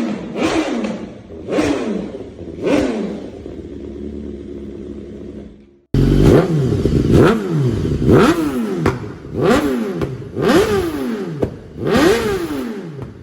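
BMW S1000RR inline-four engine through an aftermarket exhaust, revved in sharp throttle blips that each rise and fall back. It settles to a lower idle, then cuts abruptly to another recording of quicker, louder blips about once a second.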